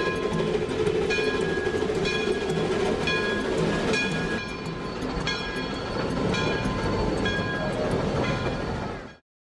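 Steam locomotive running, its whistle blowing steadily for about the first four seconds over a regular beat of about two strokes a second. The sound cuts off abruptly just before the end.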